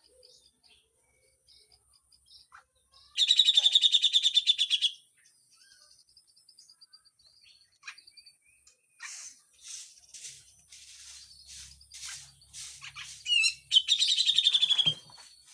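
Grey-cheeked bulbul (cucak jenggot) singing: two loud, harsh, rapid trills, one about three seconds in and one near the end, with scattered short chirps and calls between them.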